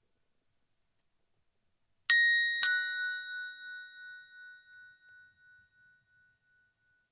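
Doorbell chime striking two notes, a higher ding then a lower dong about half a second later, ringing out and fading over about three seconds.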